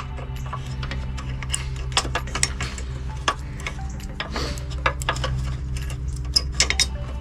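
Irregular light clicks and rattles of a mower brake cable and its small metal and plastic fittings being handled, over a steady low hum.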